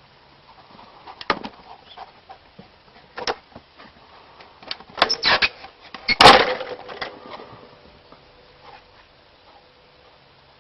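Scattered knocks and taps of a dog playing with a ball and a ball-launching catapult toy, with a quick run of hits about five seconds in and one loud thump just after six seconds, after which a faint steady ringing tone lingers.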